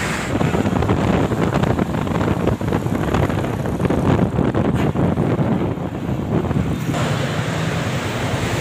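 Wind buffeting the microphone over the road noise of a moving truck, a loud gusty rush with rapid crackles that eases about seven seconds in.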